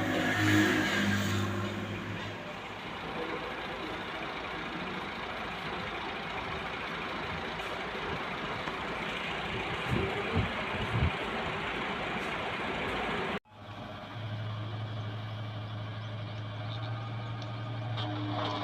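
Heavy vehicle engines running at a road-construction site, with a few low thumps partway through. Near the end the sound cuts off abruptly and gives way to a steady low engine hum.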